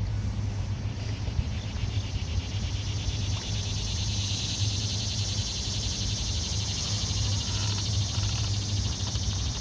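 A high, buzzing chorus of calling wild animals that swells from about a second in, over a steady low hum.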